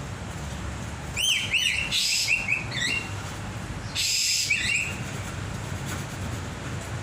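A caged songbird calling in quick runs of up-and-down whistled notes, twice, each run joined by a short hissing burst.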